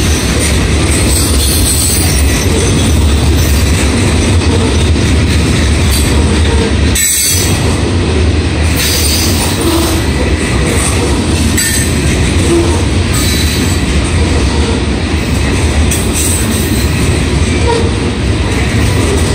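Loaded covered hopper freight cars rolling past: a steady, loud rumble of steel wheels on the rails with clatter from the cars.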